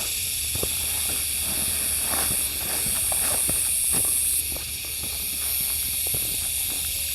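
Loud, steady, high-pitched insect chorus buzzing, with a brighter, higher layer for a couple of seconds in the middle. Footsteps on the trail underneath.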